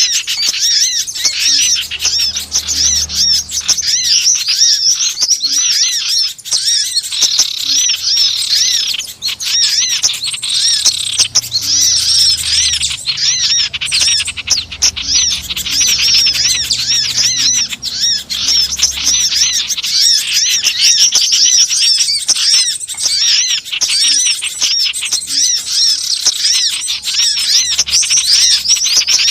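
Dense, unbroken chatter of many small wild songbirds, with rapid high chirps overlapping one another: a noisy bird-lure (pikat) call recording.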